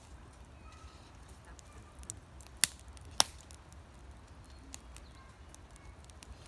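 Campfire burning, with two sharp pops from the burning wood about half a second apart, a little over two and a half seconds in, and a few fainter crackles.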